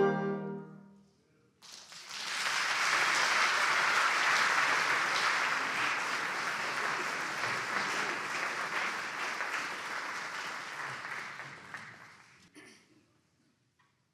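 A wind band's final chord rings off, followed by a brief hush. Then the audience applauds for about ten seconds before the clapping dies away.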